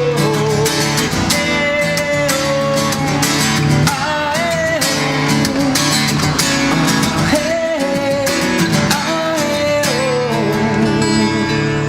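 Acoustic guitars strumming and picking a song's instrumental intro, with a sliding, wavering melody line above the chords.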